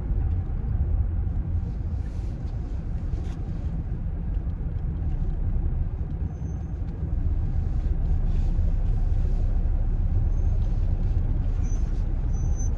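Steady low rumble of road and engine noise inside a moving car, growing somewhat louder about seven seconds in.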